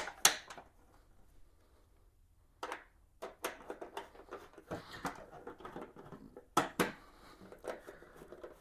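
Scattered light clicks and taps from hand work on small parts: a bolt and a chrome trim piece being handled and started into place, with faint rustling between.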